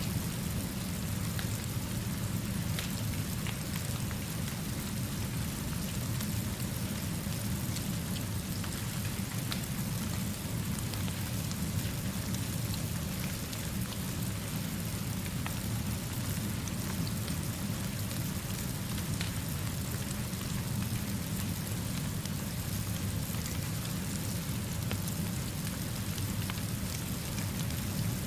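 Steady rainfall with a constant low rumble underneath, mixed with a burning fire whose faint crackles tick here and there through the rain noise.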